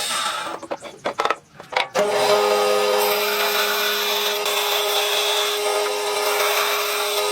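An electric power tool running steadily on wood, with a constant hum under the noise of the cut, starting about two seconds in after a few short knocks.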